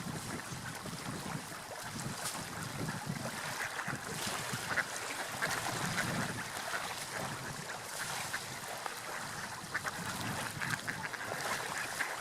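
Seagulls calling over a steady wash of sea water.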